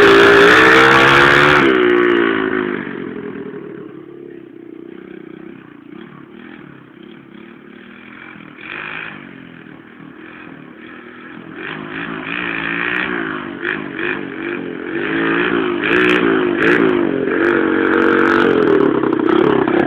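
Dirt bike engine revving, its pitch rising and falling through the gears, fading into the distance after a couple of seconds as it rides away, then growing louder again from about halfway as it comes back.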